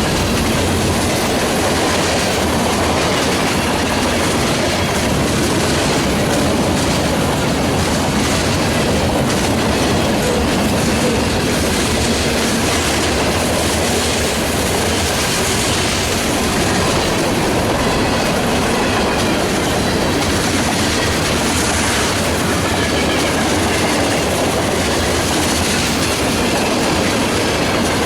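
Freight train cars rolling past at steady speed, their wheels clicking over the rail joints in a continuous, loud rolling noise.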